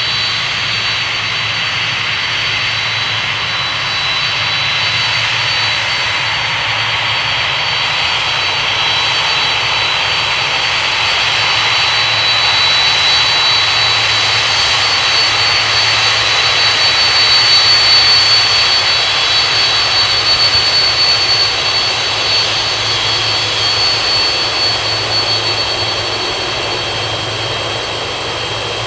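Boeing 767 jet engines running with a steady high-pitched whine over a broad rush. The sound grows slowly louder to a peak about eighteen seconds in, then eases a little.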